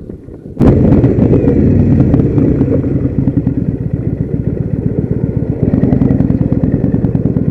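Kawasaki Vulcan motorcycle engine running with a steady, even pulsing beat, cutting in suddenly about half a second in.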